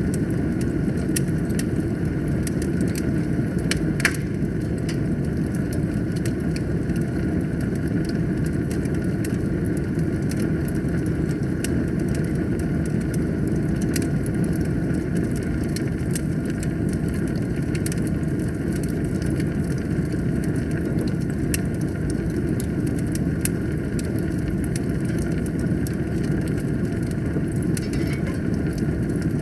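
Wood fire burning in a fireplace: a steady low rush of flames with frequent crackles, and one louder pop about four seconds in.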